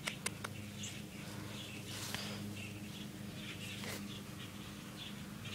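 Birds chirping faintly in the background over a steady low hum, with a few sharp clicks right at the start.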